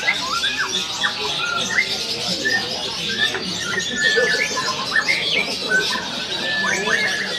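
Long-tailed shrikes (cendet) and other caged songbirds singing together in a dense run of harsh squawks, short chirps, quick rising whistles and a few held notes, with no pauses.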